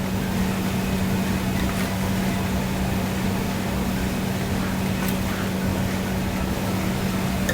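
Steady low hum with an even rushing noise from kitchen ventilation machinery, with a faint tick about five seconds in.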